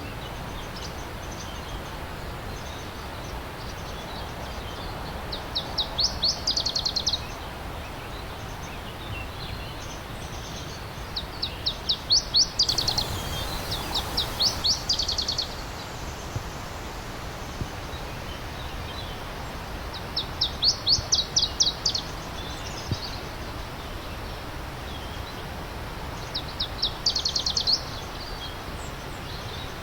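A songbird repeating a short phrase of rapid, high notes, about every six seconds, over the steady rush of a stream.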